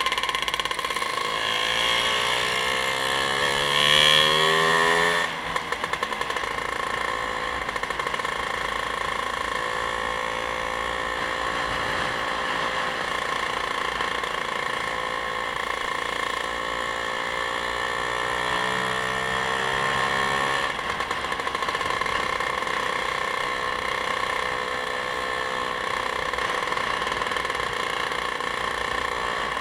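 Vehicle engine heard from on board while on the move. Its pitch climbs under acceleration, drops suddenly at a gear change about five seconds in, holds fairly steady, then climbs again to a second gear change about two-thirds of the way through.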